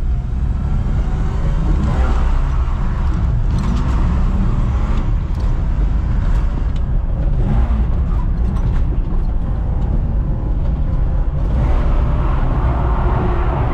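BMW E46 325Ci's 2.5-litre straight-six engine running on track, its note rising and falling, over a steady rumble of tyre and wind noise.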